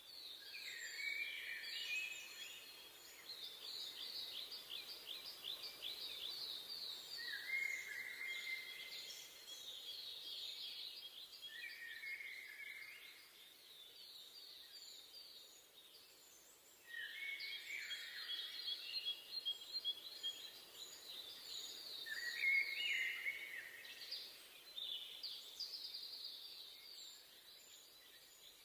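Several songbirds singing over one another in a forest, with fast trills of repeated notes and shorter lower phrases, over a soft steady background hush. The birdsong thins out briefly about halfway through, then comes back.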